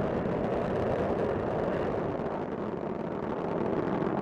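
Steady rumbling roar of Space Shuttle Discovery's solid rocket boosters and main engines during ascent, dipping slightly about halfway through and building again near the end.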